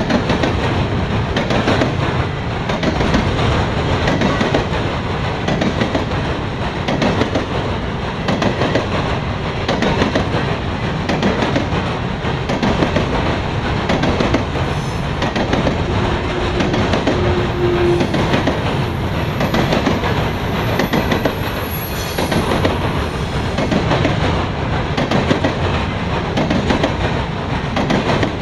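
Freight cars of a Norfolk Southern grain train rolling past, steel wheels clacking steadily and rapidly over the rail joints. A thin, high wheel squeal comes in for a few seconds past the middle.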